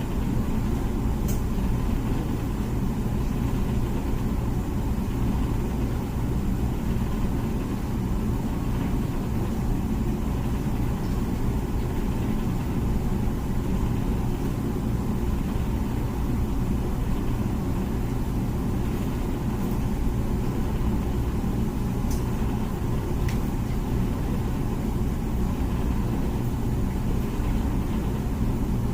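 Comfee dishwasher running a wash cycle: a steady, unchanging hum.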